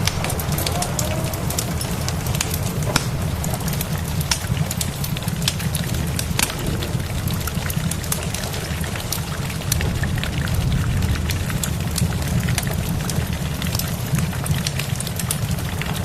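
Wood fire crackling, with frequent sharp pops, over a steady hiss of rain and a low, even rumble.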